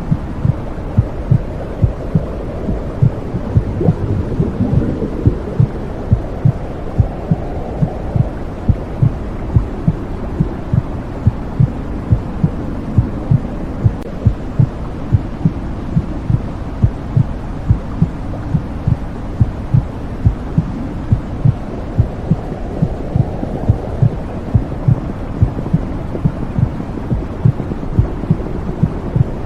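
Womb sound: a steady, regular heartbeat pulsing over a low whooshing hum.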